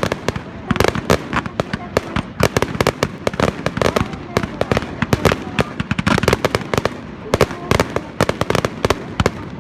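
Fireworks crackling: a dense, irregular run of sharp cracks and pops, several a second, with no let-up.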